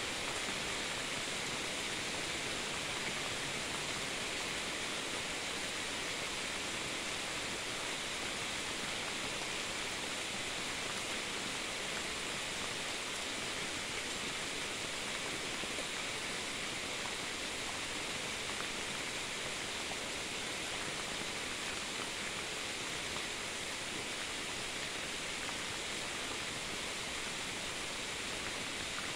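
Steady rain falling during a night thunderstorm, an even hiss that does not change.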